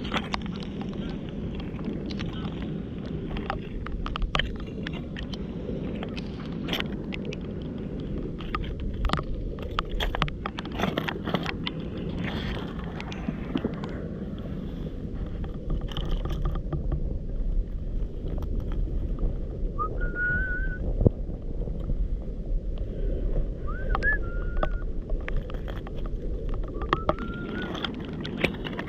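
Outdoor shoreline ambience: a steady low rumble of wind and water with scattered small clicks and knocks, then a few short whistled chirps in the last third.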